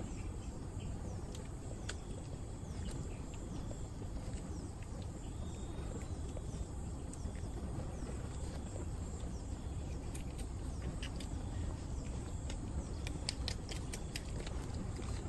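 Steady low rumbling background noise with scattered sharp clicks or taps, which come more often in the last few seconds.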